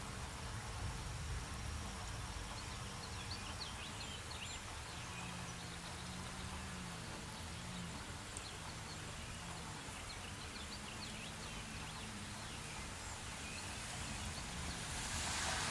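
Outdoor ambience: a steady low rumble under faint short chirps, with a broad hiss swelling near the end.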